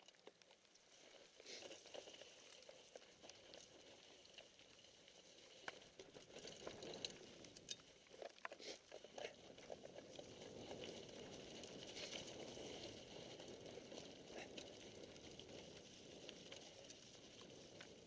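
Mountain bike descending a wet trail in the rain: faint, steady hiss of tyres on wet ground with scattered clicks and rattles from the bike, a little louder from about halfway through.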